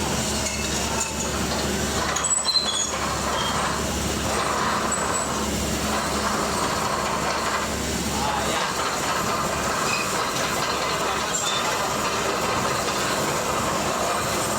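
Steady mechanical noise of heavy vehicles on the road, with a few short high squeals about two to three seconds in.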